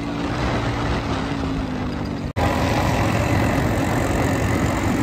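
Motorcycle engines running at road speed, with wind noise on the microphone. The sound cuts out abruptly for an instant about two and a half seconds in, then resumes louder and noisier.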